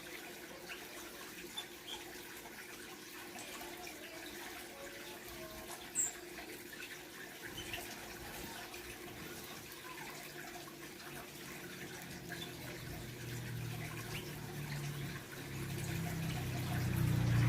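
Steady trickle of running water with a few brief, faint bird chirps from the aviary's small birds, one sharper chirp about six seconds in. A low rumble builds and grows louder in the last few seconds.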